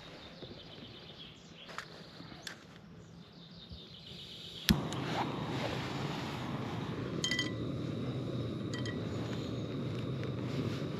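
Small camping gas stove on a screw-on gas cartridge being lit: a sharp igniter click about halfway through, then the burner catching and running with a steady rushing hiss. A few light metallic clinks follow.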